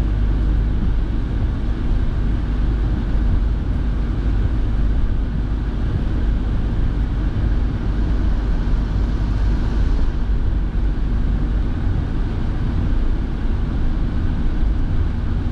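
Steady road noise inside a moving car's cabin: engine and tyre rumble on a rain-wet road with the heater fan blowing. The hiss eases slightly about ten seconds in.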